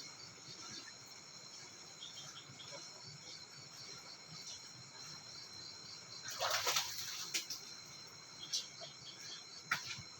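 Steady high-pitched chirring of crickets and other insects. A short noisy burst comes about six seconds in, and a few sharp clicks follow.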